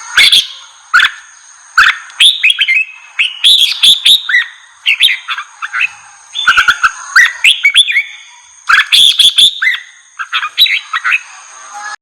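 Red-whiskered bulbul singing loud, rapid runs of whistled chirps in repeated bursts: the fired-up, aggressive song that keepers play to provoke other bulbuls.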